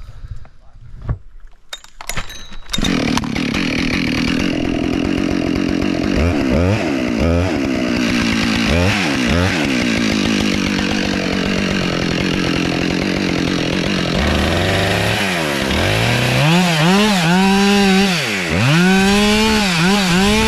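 Chainsaw starts up a few seconds in and cuts into a hard-leaning oak's trunk while felling it. In the second half the engine note dips and recovers again and again as the saw is worked through the cut.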